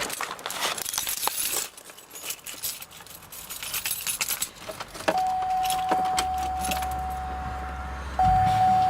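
Keys jangling and clicking, then the 2003 Pontiac Aztek's steady warning chime begins about five seconds in. Near the end the car's 3.4-litre 3400 V6 cranks and fires on a cold start.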